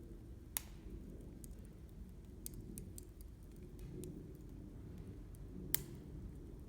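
Wood campfire crackling: scattered small snaps and ticks, with two sharp pops, one about half a second in and one near the end, over a steady low rumble.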